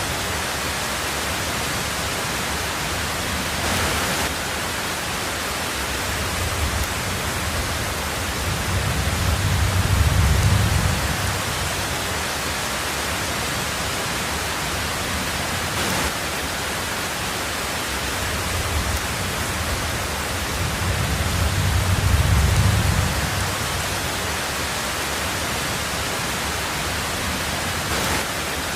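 Steady hiss of heavy rain, with a low rumble of thunder swelling and fading twice, about a third of the way in and again about three quarters through.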